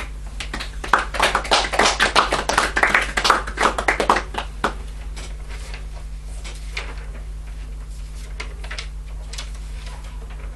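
A small audience applauding for about four seconds, then dying away to a few scattered claps. A steady low electrical hum runs underneath.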